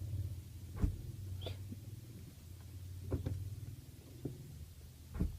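Manual car's gear lever pushed into reverse twice, each engagement giving a short sharp clunk ('kadak'), over a low steady hum that stops partway through. The clunk comes from the straight-cut reverse gear teeth meeting.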